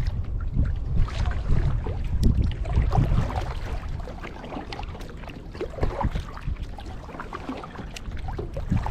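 Kayak paddle strokes: water splashing and dripping off the paddle blades, with wind rumbling on the microphone. The paddling eases off about halfway through.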